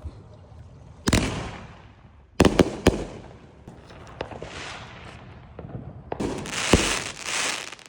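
Firework going off: a bang about a second in trailing into a fading hiss, three quick bangs a moment later, then a long crackling hiss with one more bang near the end.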